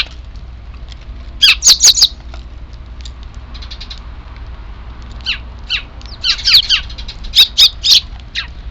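Eurasian tree sparrows giving loud, harsh chirps in quick clusters: about four together a second and a half in, then scattered calls and a longer run in the second half. These are the chicks' characteristic begging calls. A steady low hum runs underneath.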